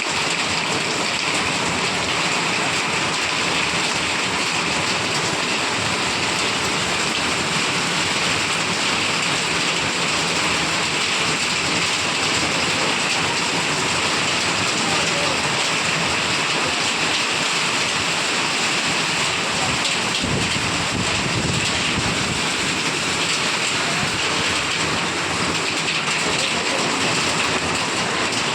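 Heavy rain falling steadily, a loud unbroken hiss, with a low rumble about twenty seconds in.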